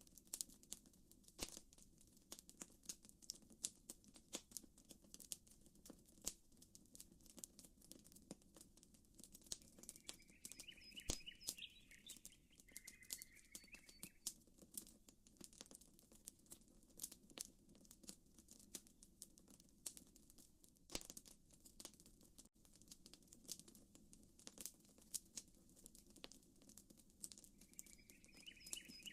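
Campfire crackling, with frequent irregular sharp pops and snaps. A bird gives a short chirping call twice, about ten seconds in, and again near the end.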